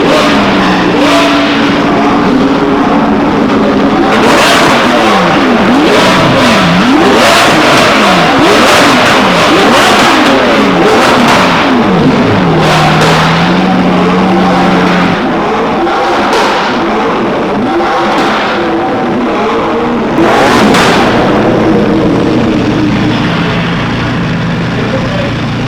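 Several high-performance car engines revving and passing at speed, their pitch rising and falling over and over, with a few sudden louder surges.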